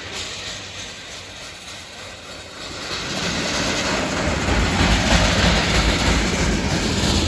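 Freight train rolling by: a low rumble with rushing rail noise that grows much louder about three seconds in, then holds steady.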